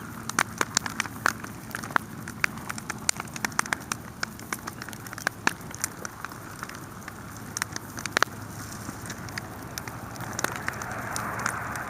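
Wood campfire crackling, with irregular sharp pops and snaps over a steady hiss of burning. Near the end the hiss swells louder.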